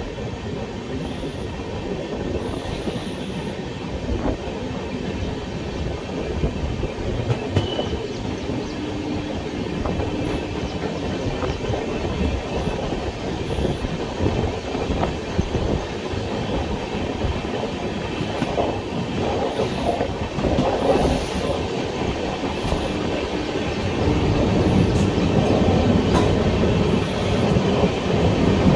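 An express passenger train running at speed: a steady rumble with a quick, uneven clatter of wheels over the track, growing louder a few seconds before the end.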